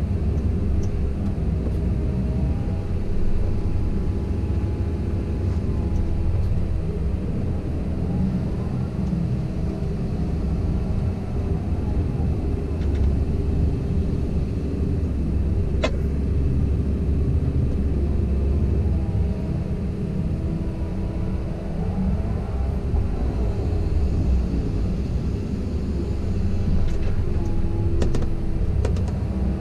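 Komatsu PC170LC-10 excavator running steadily while it works, its engine droning low with a faint whine that rises and falls now and then. There is one sharp click about halfway through and a few more near the end.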